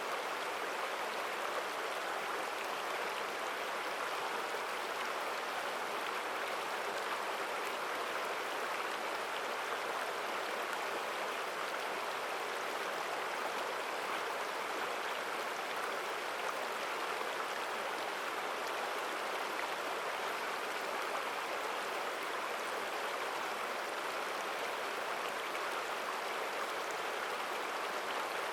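Mountain stream flowing strongly over rocks, a steady rushing and splashing of water with no change in level.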